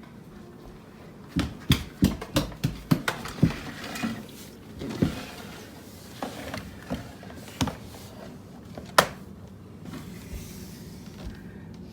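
A run of irregular light knocks and clicks from small hard objects being handled and set down, with one sharper, louder knock about nine seconds in.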